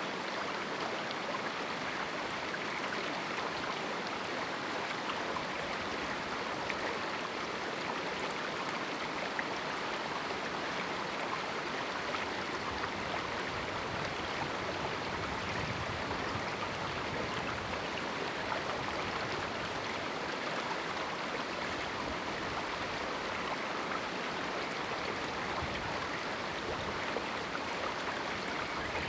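Small river running through a canyon: a steady, even rush and babble of flowing water.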